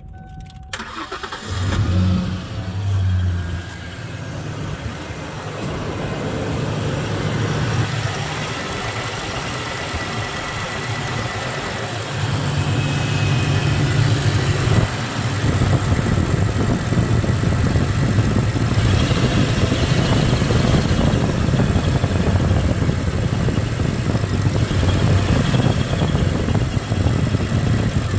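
1993 Ford Ranger's 3.0 L V6 starting about a second and a half in, then running at idle with a misfire that the owner traces to one of two cylinders. It grows louder from about halfway through.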